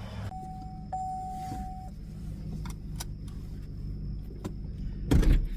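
Car engine idling steadily, with a single electronic beep held for about a second and a half early on, a few light clicks, and a thump about five seconds in.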